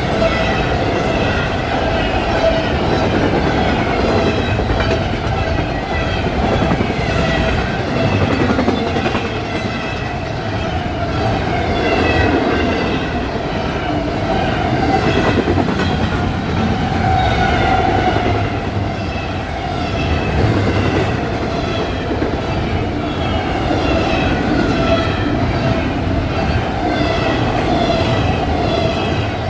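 Intermodal freight train's container well cars rolling steadily past, wheels clacking over the rail joints with a continuous rumble. A steady high ringing note sounds over it.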